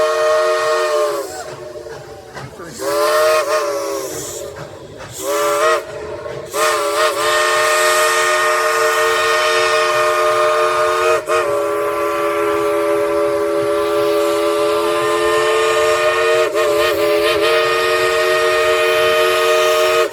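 Steam locomotive's chime whistle blowing real loud and long, over a hiss of steam. It gives a few short blasts that waver in pitch as they start during the first seven seconds, then one long blast that runs on to the end with only brief dips.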